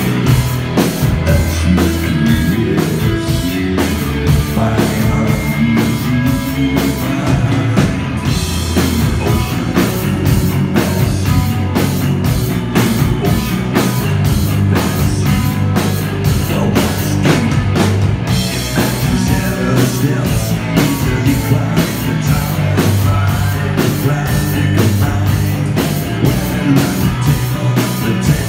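Live rock band playing a song: a steady drum beat under bass and electric guitar.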